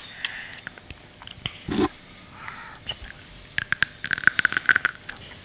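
A child chewing sea grapes (umibudo seaweed) right against a microphone: sharp wet pops and crackles as the little beads burst. The pops come scattered at first, with a short low mouth sound about two seconds in, then thicken into a dense run of crackling from about three and a half seconds in.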